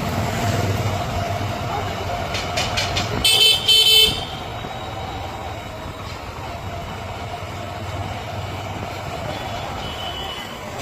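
Vehicle horn sounding a few quick short beeps and then two longer blasts about three seconds in, over steady road traffic noise.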